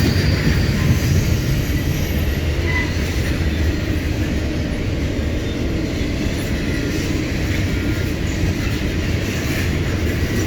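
Norfolk Southern intermodal freight train rolling past at close range: a steady, loud rumble of steel wheels on rail.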